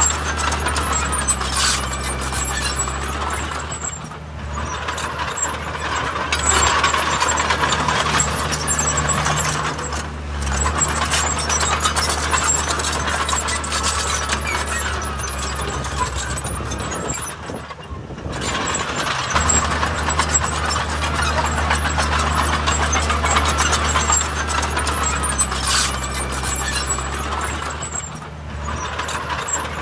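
Heavy diesel earthmoving machinery running under load, with a steady low engine note and a rattling, clanking layer on top; the sound eases briefly several times and then picks up again.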